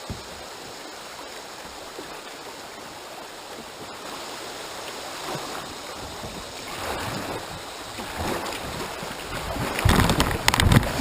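Flowing river water rushing, then kayak paddle strokes splashing about every second and a half, growing louder as the kayak is driven hard at a logjam. Near the end comes a loud burst of splashing and knocking as the kayak hits the logs.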